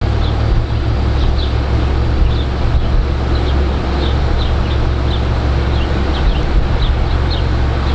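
Outdoor ambience: a steady low rumble, with small birds chirping in short, repeated chirps throughout.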